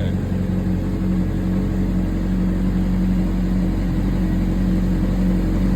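Honda CBR600RR's inline-four engine idling steadily as it warms up.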